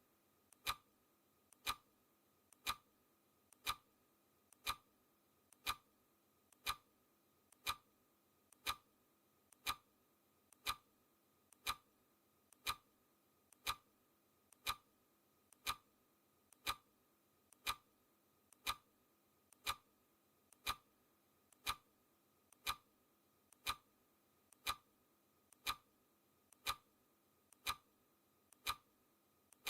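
Clock-like ticking sound effect of a countdown timer, one sharp tick per second at a steady pace. Each tick is a faint click followed closely by a louder one.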